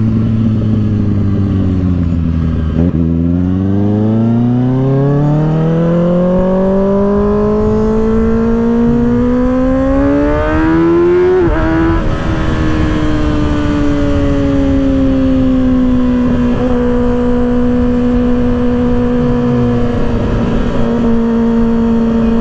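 2024 Kawasaki ZX-6R's 636 cc inline-four running through an aftermarket M4 exhaust while riding. Its pitch drops over the first few seconds, then climbs steadily for about eight seconds as the bike accelerates, breaks briefly at a shift, and settles into a steady cruise over road and wind noise.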